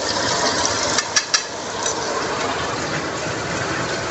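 Pounded chili, garlic and shallot paste frying in hot oil with dried anchovies in a wok, giving a steady sizzle. Two sharp taps of a metal spoon come a little over a second in.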